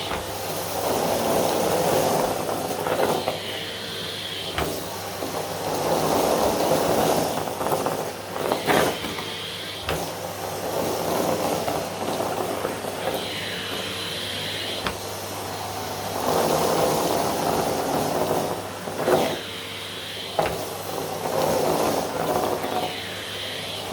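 Vacuum cleaner running steadily while pushed back and forth over carpet, its rushing suction noise swelling and fading every few seconds over a constant motor hum.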